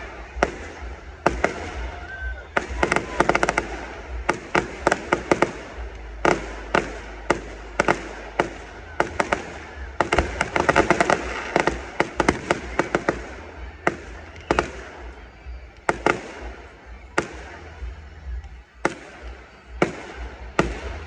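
Aerial fireworks display: a continuous run of sharp bangs and crackles from shells bursting, with dense rapid flurries about three seconds in and again around ten to twelve seconds.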